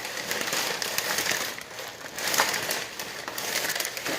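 Close-up crinkling and rustling, full of small crackles, like something being handled or crumpled.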